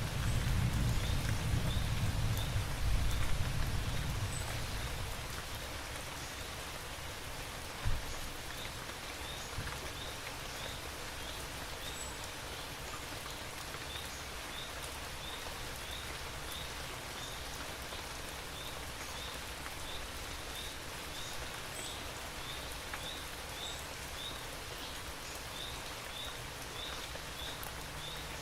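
Steady rain falling, with the low rumble of thunder dying away over the first few seconds. A single sharp knock comes about eight seconds in, and a faint, high, short chirp repeats every second or so.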